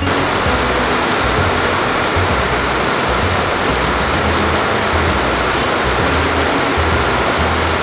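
Heavy rain pouring down in a steady, loud, even rush.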